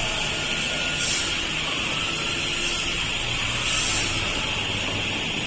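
CNC router with vacuum table running: a steady high-pitched whine over a low hum, with a brief hiss swelling twice.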